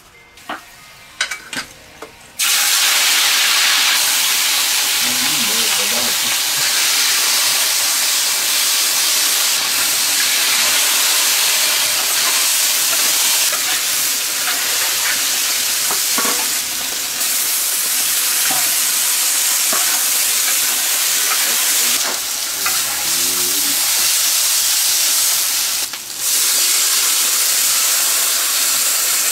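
Chopped meat hitting hot lard in a large cast-iron wok, starting a loud, steady sizzle about two seconds in. A metal spatula stirs and scrapes it through the pan. Near the end, water is added and the wok hisses into a burst of steam.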